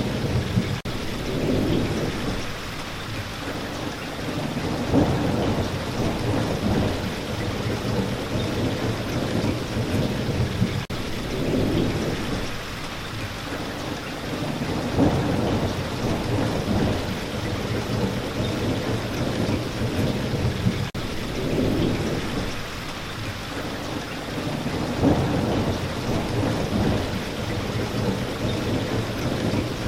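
Steady rain falling, with low rolling rumbles of thunder that swell and fade every five seconds or so.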